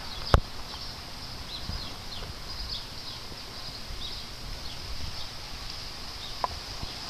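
Outdoor ambience with small birds chirping repeatedly in the background, short high falling chirps. A single sharp knock sounds about a third of a second in, and a fainter click comes near the end.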